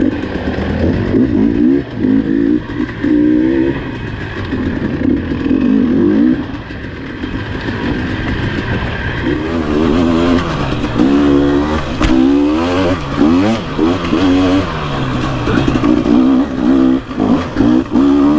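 Dirt bike engine revving up and down again and again as the throttle is opened and shut on a trail ride, with a sharp knock about twelve seconds in.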